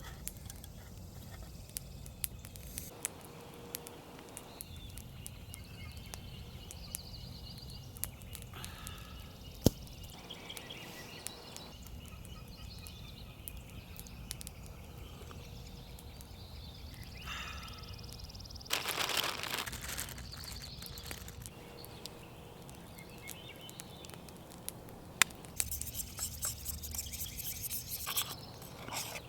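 Campfire crackling with scattered sharp pops and ticks, faint bird calls from the woods, and a brief scraping rush of noise about two-thirds of the way through.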